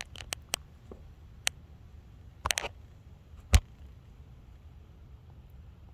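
A few scattered sharp clicks and knocks over a faint low hum. A small cluster comes about two and a half seconds in, and the loudest single knock about a second later.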